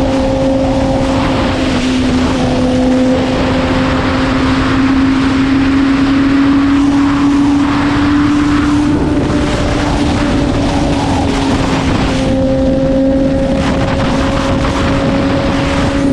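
Sport motorcycle engine held at steady high revs, its note climbing slowly for about half the time, then easing back and holding, over constant wind rush on the camera.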